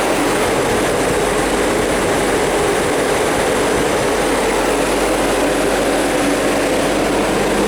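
Walk-in chiller's refrigeration fans running, a steady unbroken rush of air with a low hum underneath.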